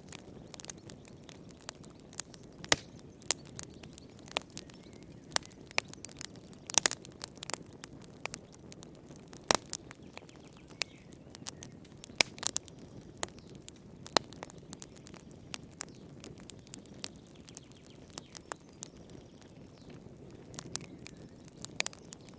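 Wood fire burning in a fireplace, crackling and popping with irregular sharp snaps over a low steady rush of flame.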